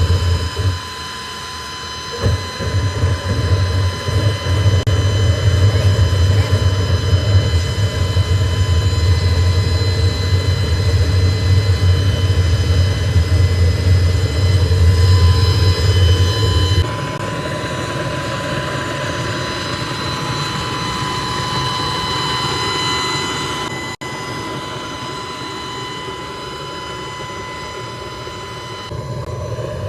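Factory machinery running steadily: a heavy low hum with a steady high whine over it. The hum cuts off abruptly about 17 seconds in, leaving a lighter machine drone with the same whine.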